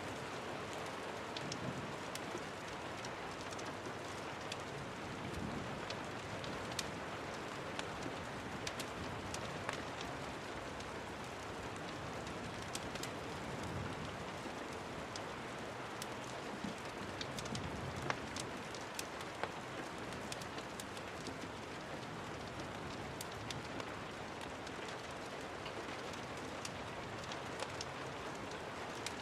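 Steady rain falling, with many sharp little clicks scattered through it.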